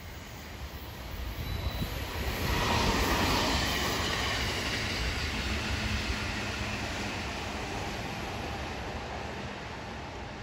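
Two electric commuter trains, a Meitetsu 3150 series and a JR 311 series, running past on parallel tracks: the rumble of wheels on rail swells to its loudest about three seconds in, then fades slowly as the trains move away.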